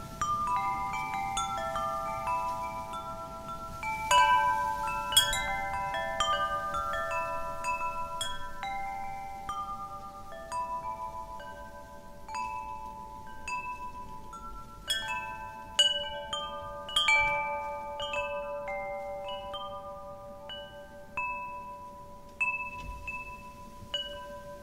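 Wind chimes ringing in irregular, overlapping strikes of several clear notes that each ring on, with louder clusters of strikes about four seconds in and again around fifteen to seventeen seconds.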